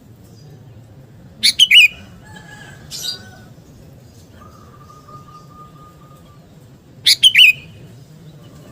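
Sooty-headed bulbul calling: two loud bursts of three quick chirpy notes, one about a second and a half in and one near the end, with a softer call between them and faint long whistles in the background.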